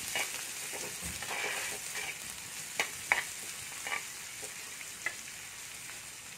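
Sliced shallots, green chillies, curry leaves and ginger sizzling steadily in hot coconut oil as they are sautéed, with a steel spatula scraping and tapping the pan several times while stirring. The sizzle grows slightly quieter toward the end.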